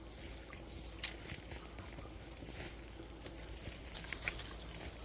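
Footsteps crunching on forest-floor litter: scattered light crackles and ticks, with one sharp twig snap about a second in, over a faint low outdoor rumble.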